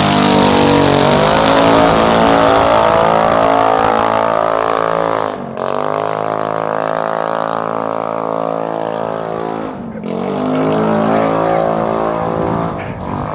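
Straight-piped exhaust of a Yamaha X-MAX 125 scooter's single-cylinder four-stroke engine, running loud at high revs. The throttle is shut twice, about five and ten seconds in, and the revs drop sharply each time and then climb again.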